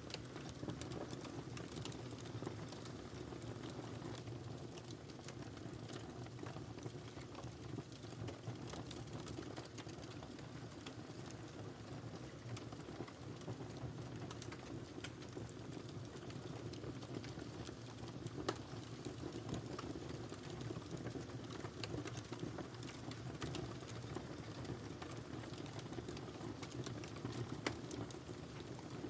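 Wood fire crackling in a fireplace: a steady low rumble of burning with frequent small pops and clicks, and two louder snaps, one about two-thirds of the way in and one near the end.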